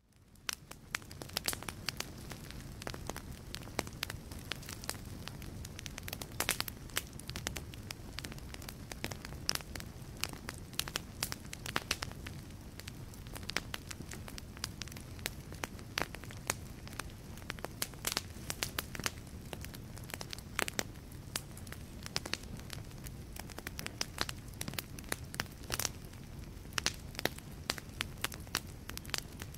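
Wood fire crackling in a fireplace: frequent sharp pops and snaps over a steady low rumble of the flames. The sound drops out for an instant at the very start and fades back in.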